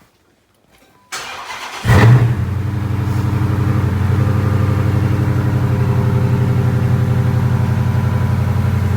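Chrysler 300C's Hemi V8 cranked over briefly by the starter, catching about two seconds in with a loud flare of revs, then settling into a steady idle.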